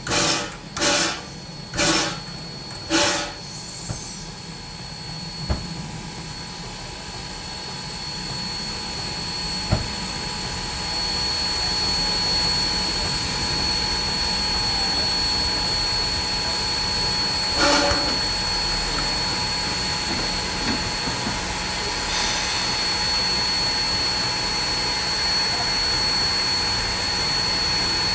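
Narrow-gauge steam locomotive exhausting in chuffs about one a second, spacing out and fading over the first few seconds. Then a steady hiss of steam with a thin high whine, broken by one short sharp sound near the middle.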